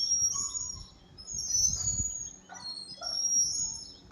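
A songbird singing: high, slightly gliding phrases of about half a second to a second each, repeated about three times.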